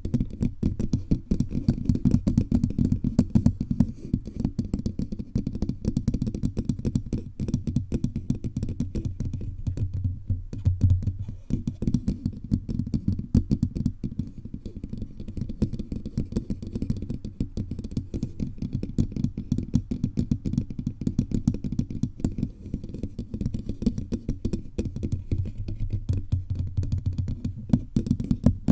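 Fingertips tapping rapidly and continuously all over the body of a bare microphone, a dense patter of dull, low taps close to the capsule.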